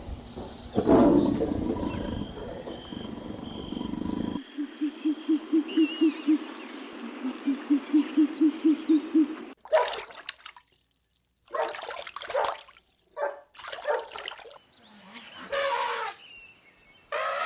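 A sequence of different animal calls. A rough roar runs for the first four seconds and cuts off. Then come two runs of fast, low, even hoots, about four or five a second. From about ten seconds in, several separate short pitched calls follow.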